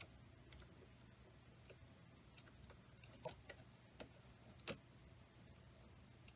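Faint, irregular metallic clicks and clinks of small hardware and tools being handled during assembly, about eight of them spread over a few seconds, over a low steady hum.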